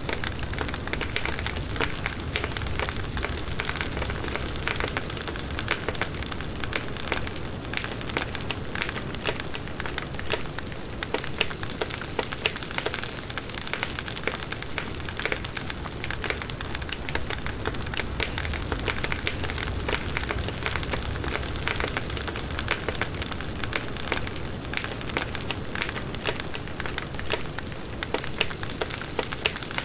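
Firewood burning in a campfire, a steady rush of flame with dense crackling and frequent small pops.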